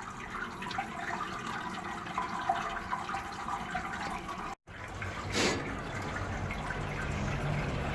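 Water trickling and dripping. It breaks off abruptly about four and a half seconds in; a short splash follows, then a low steady hum under the water.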